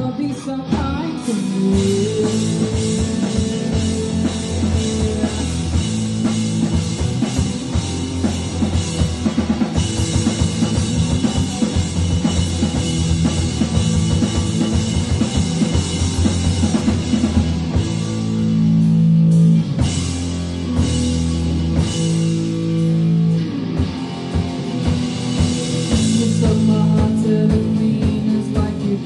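Live rock band playing with drum kit and guitar, an instrumental stretch of the song.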